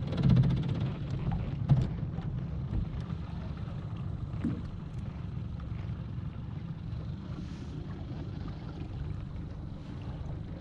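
Small motorboat under way on the water: a steady low engine rumble mixed with wind buffeting the microphone, a little louder in the first half second.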